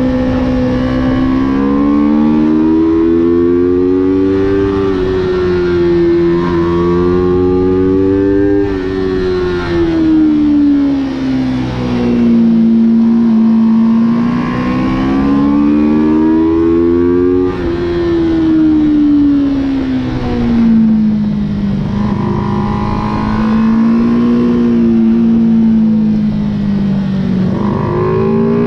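Motorcycle engine at high revs, heard from on board on a race track. The pitch rises and falls smoothly in long sweeps every few seconds as the rider accelerates and backs off through the corners.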